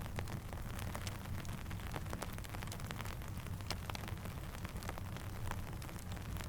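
Steady rain ambience with many scattered sharp crackles and pops of a campfire over a low, even rumble.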